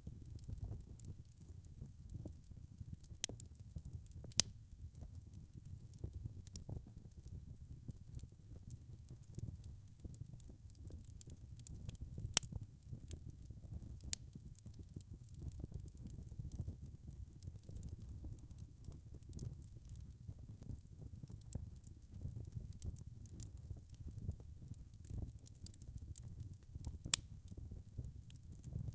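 Wood fire crackling in a fireplace: a steady low rumble of burning with scattered sharp pops and snaps, the loudest a few seconds in, near the middle and near the end.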